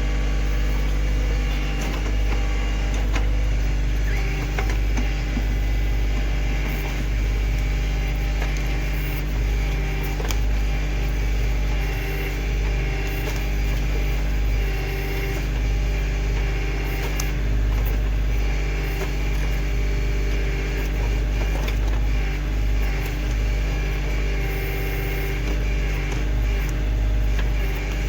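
Kioti CK2610 compact tractor's three-cylinder diesel engine running steadily while it powers the backhoe, with scattered short knocks.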